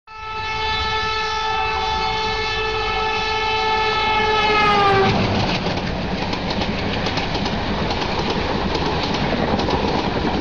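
Passing express train led by an electric locomotive: a long blast of its multi-tone air horn, whose pitch sags just before it stops about five seconds in, then the loud rumble of the coaches with rapid clicking of wheels over the rail joints.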